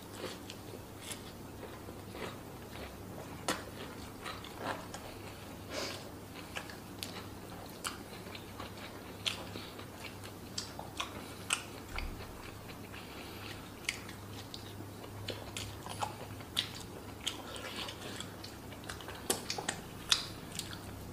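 Close-miked eating sounds: chewing and crunching on fried fish with rice, with irregular sharp crunches and clicks, over a low steady hum.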